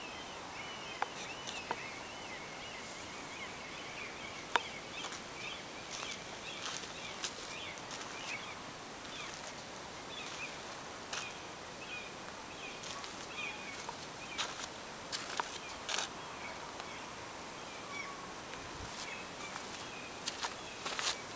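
Small birds chirping on and off over a faint steady outdoor hiss, with a few short sharp clicks scattered through.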